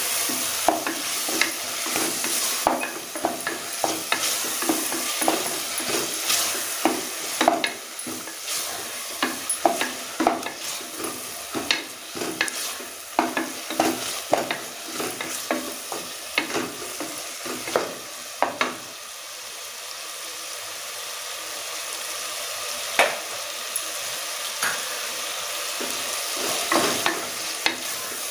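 Onion-tomato masala with ginger-garlic paste sizzling as it fries in a pressure cooker, while a wooden spatula stirs it and knocks and scrapes against the pot many times. Past the middle the stirring pauses for several seconds, leaving only the steady sizzle, then starts again near the end.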